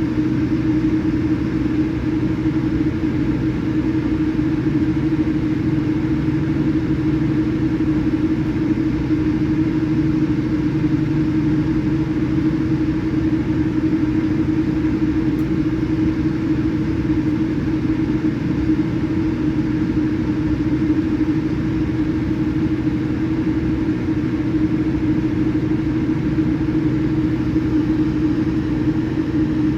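Boeing 787-8 cabin noise: the steady drone of the engines and airflow heard inside the passenger cabin, with a low hum that holds level without rising or falling.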